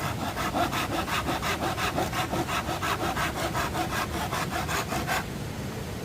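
Hand saw cutting through wood in quick, even strokes, about five a second, stopping about five seconds in.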